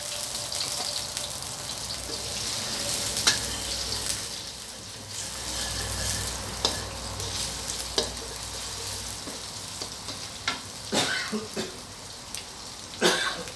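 Beaten egg and minced pork sizzling in a stainless steel wok, stirred with a spatula that scrapes and clicks against the pan several times.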